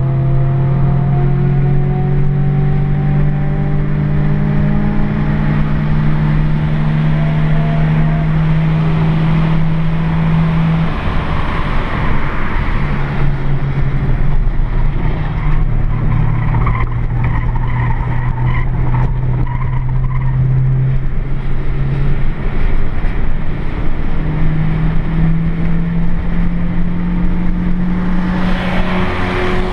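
Nissan Micra K11's engine heard from inside the cabin under hard acceleration, its note climbing slowly as it pulls through a gear, easing off about eleven seconds in, then pulling again, with another break later and a fresh climb near the end. Tyres squeal through a long corner in the middle.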